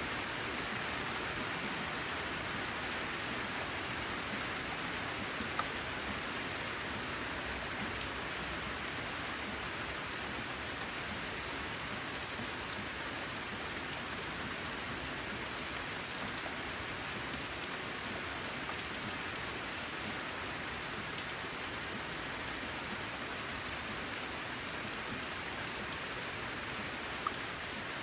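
Steady, even rain, with now and then a single louder drop ticking sharply.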